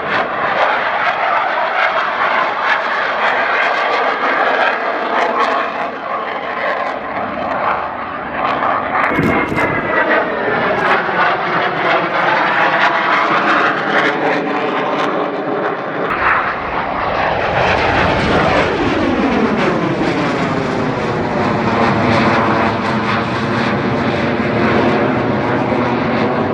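Military jet aircraft engines running loud and continuously as the aircraft fly past low, with the pitch sweeping up and down as each pass goes by. The sound changes abruptly about 9 and 16 seconds in, as one pass gives way to another.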